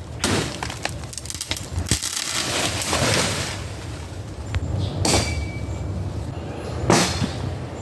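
Machete chopping into wood: about four sharp strikes, spaced roughly two seconds apart.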